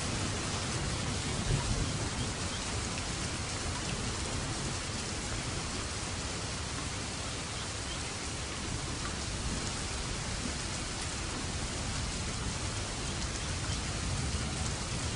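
Steady rain falling, an even hiss with scattered drop ticks. A low thunder rumble fades out in the first couple of seconds.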